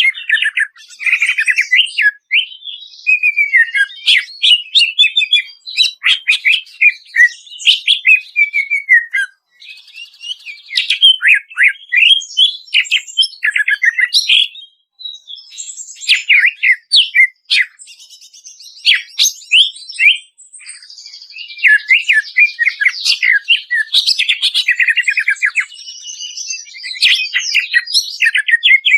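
Greater green leafbird (cucak ijo) singing a fast, varied song of rapid chirps, trills and whistled phrases, with a few short pauses.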